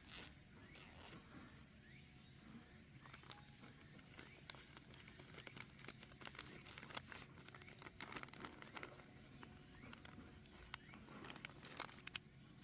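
Near silence with faint scattered clicks and crinkling, busier in the second half.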